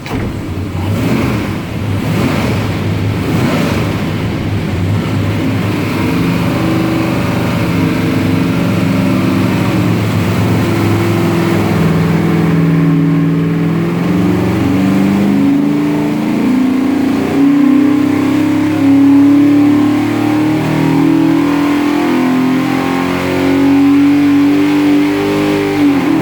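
632 cubic-inch big-block Chevrolet V8 with a custom-ground hydraulic roller cam, running loud on an engine dyno. It is uneven for the first few seconds, then its pitch climbs slowly and steadily as it is pulled up through the rev range.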